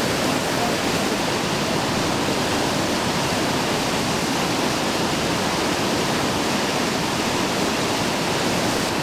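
Steady rush of fast-flowing whitewater in an artificial whitewater rapids channel.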